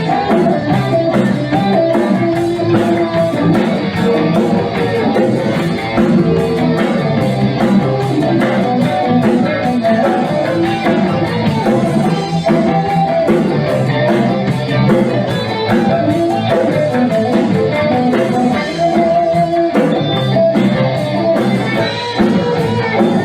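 Rock band playing an instrumental passage: guitar over a drum kit keeping a steady beat, with no singing.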